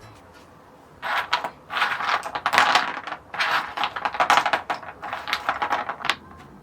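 Rapid clicking and rattling of small hard parts, coming in spurts for about five seconds, starting about a second in.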